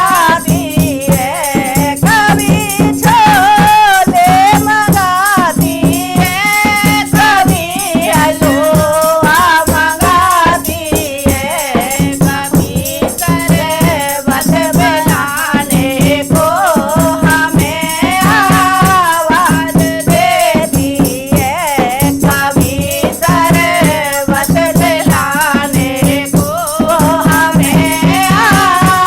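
Hindi devotional bhajan: a melody sung or played over a fast, steady rattling percussion beat.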